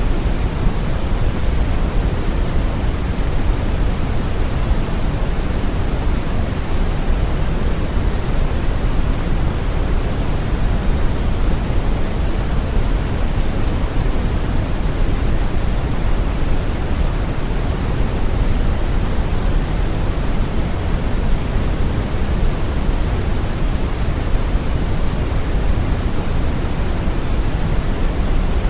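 Brown noise: a steady, even rumbling hiss, deepest in the bass and fading toward the treble, with no changes.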